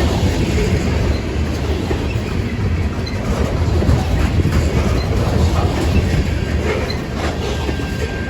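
Loaded grain train's freight cars rolling past at speed: a steady heavy rumble with wheels clicking over the rail joints.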